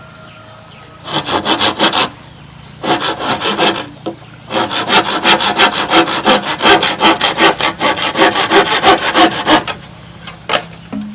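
Hand saw cutting with quick, even back-and-forth strokes in three spells, the last one longest, stopping near the end.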